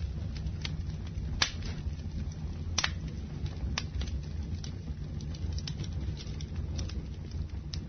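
Campfire burning: burning wood gives sharp pops and crackles at irregular intervals over a steady low rumble. The loudest pops come about a second and a half in and just before three seconds.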